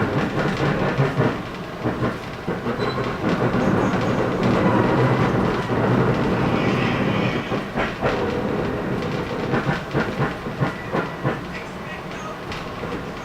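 Moving passenger train: wheels clacking irregularly over rail joints above a steady rumbling running noise, with a brief hiss about halfway through.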